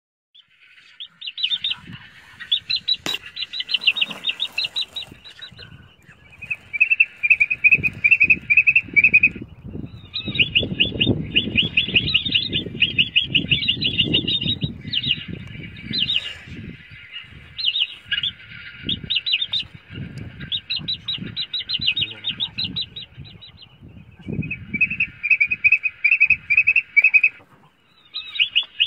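Birds chirping in rapid trills, in bouts of a few seconds each, over low rustling and handling noise, with a single sharp click about three seconds in.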